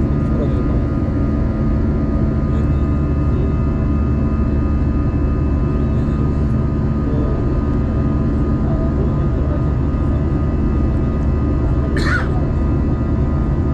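Jet airliner's engines running at takeoff power: a loud, steady rumble with a held whine. A brief higher sound cuts in about twelve seconds in.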